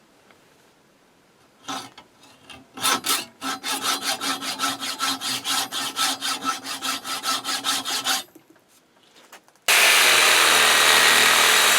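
Hand sawing: a few starting strokes, then a run of quick, even back-and-forth saw strokes cutting a piece out. After a short pause, a power tool starts suddenly near the end and runs loud and steady.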